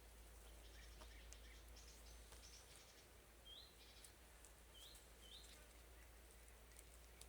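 Faint forest ambience with small birds chirping: scattered short high chirps, and three short hooked notes in the second half.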